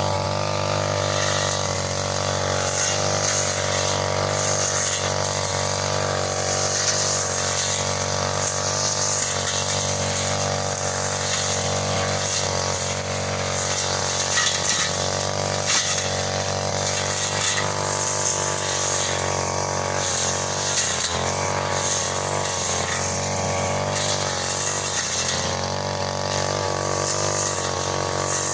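Petrol brush cutter engine running steadily at high speed while cutting grass and undergrowth, its pitch wavering and dipping briefly a few times.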